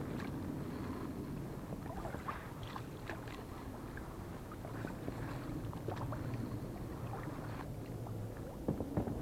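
Small fishing boat on the water: a steady low hum with scattered light knocks and clicks.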